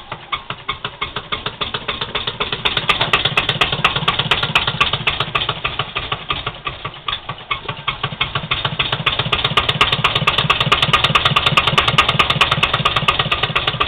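Engine that has just been worked on, starting and then running at idle with an even, rapid firing beat, growing louder over the first few seconds and then holding steady.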